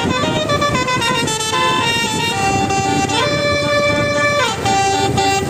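A musical multi-tone vehicle horn playing a short tune of quick stepping notes and one longer held note that slides up and back down near the middle, over a steady low rumble of traffic.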